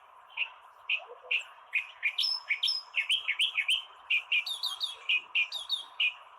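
Reed warbler singing: a run of short, sharp notes that crowds into a fast, varied chatter about two seconds in, with a few higher whistled notes, over a steady hiss.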